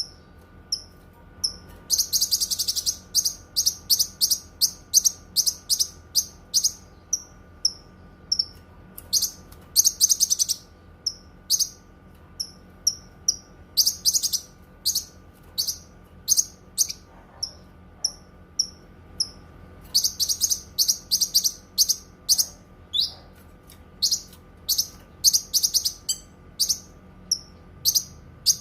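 Cucak kinoi singing: a long series of short, high chirps, broken several times by fast, dense runs of notes, over a faint steady hum.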